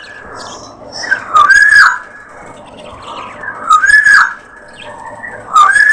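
A bird gives a loud whistled call three times, about every two seconds, each call a short rising-then-falling whistle. Budgerigars chatter steadily underneath.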